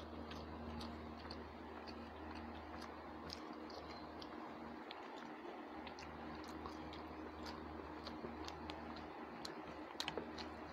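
Faint chewing and small wet mouth clicks of people eating rice and fried food with their hands, over a steady low hum. A few sharper clicks come close together about ten seconds in.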